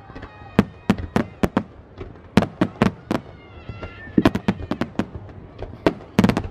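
Aerial fireworks shells bursting overhead: about twenty sharp bangs in quick, irregular succession.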